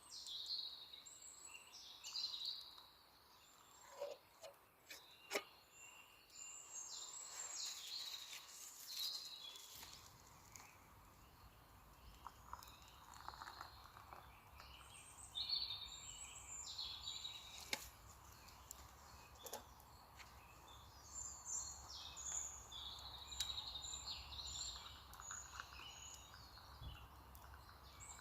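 Several birds calling and singing in woodland, short high chirps and trills overlapping, with a few sharp clicks. A low rumble, like wind on the microphone, comes in about ten seconds in.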